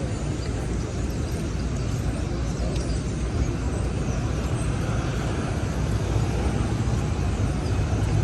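City street traffic: a steady low rumble of vehicles moving along the avenue.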